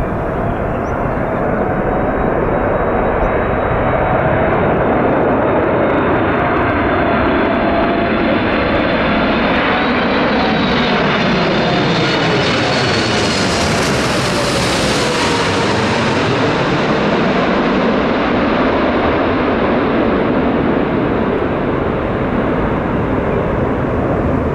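Jet airliner engines passing low and close, the noise growing brighter to a peak about fourteen seconds in and then fading as the aircraft goes by on its landing approach.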